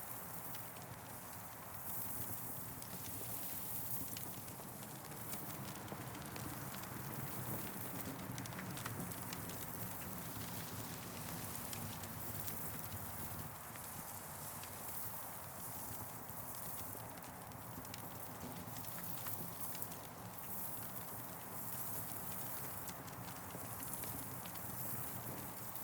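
Campfire burning with irregular small crackles and pops over a steady rushing hiss that swells and fades every few seconds, wind moving through trees.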